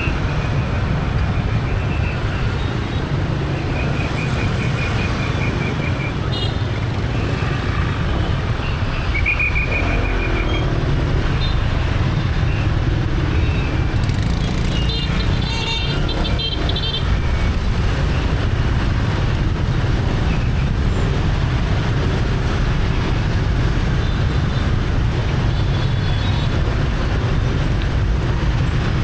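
Busy street traffic heard from a moving motorbike: a steady low engine and road rumble. Several short horn beeps sound in the first ten seconds, and more come around the middle.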